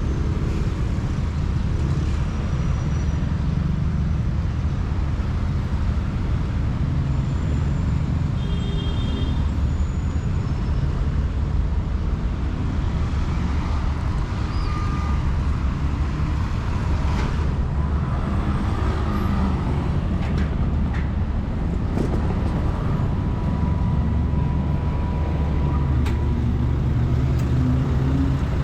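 Steady city road traffic: cars and buses running past, a continuous low rumble with a few faint short tones and clicks.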